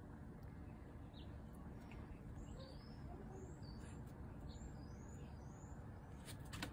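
A small bird chirping faintly: a quick run of short, high notes from about two to five seconds in, over a low steady background rumble.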